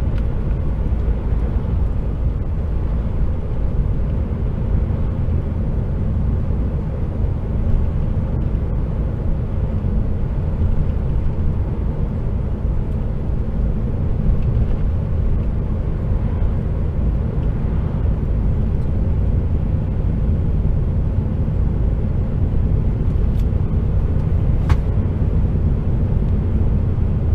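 Steady low drone from inside an HGV tractor unit's cab: a heavily loaded container truck running at about 30–35 mph on a bumpy road, its diesel engine and road noise blending into one even rumble.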